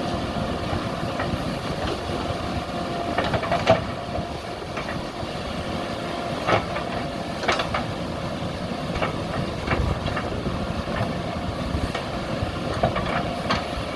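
Backhoe loader's diesel engine running steadily, with several sharp clanks and knocks from the machine at work.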